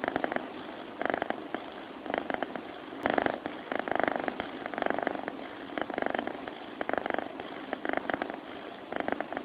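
Sleeping domestic cat snoring with a purring rattle: a rhythmic rise and fall of rattling breaths, about one every second.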